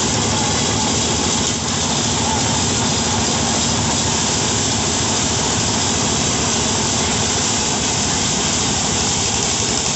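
Engine of a rice harvesting or threshing machine running steadily, with a constant, even noise.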